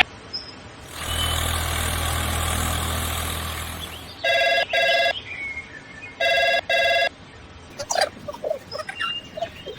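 A steady mechanical hum that fades out after about three seconds, followed by two pairs of short electronic ringing tones, like a telephone's double ring. Scattered chirping calls follow near the end.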